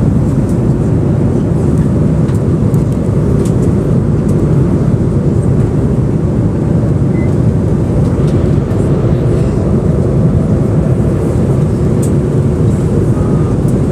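Steady low rushing noise of an airliner cabin in flight: airflow and engines.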